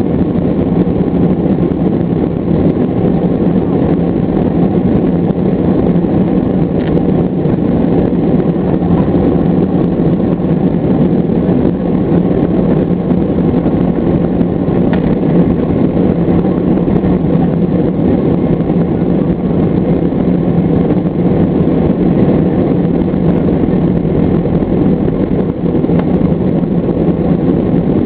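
Boeing 757's twin turbofan engines at takeoff power: a steady, loud rumble with a constant low hum underneath, unchanging throughout.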